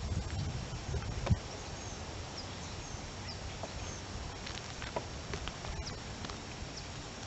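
Scattered short, high bird chirps over a steady outdoor hiss, with wind rumbling on the microphone in the first second or so.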